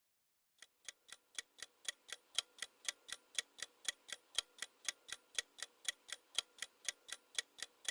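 Clock-ticking countdown timer sound effect: evenly spaced ticks about four a second, alternating louder and softer, starting about half a second in.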